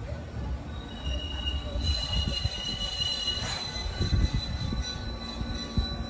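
Sanyo Electric Railway commuter train pulling into the platform and braking to a stop: a low rumble of wheels on rail, with a high, steady squeal that starts about a second in and fades near the end as the train halts.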